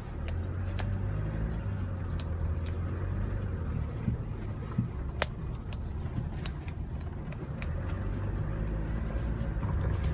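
Engine and road noise of a 1-ton pick-up truck heard from inside the cab while driving: a steady low hum, with scattered small clicks.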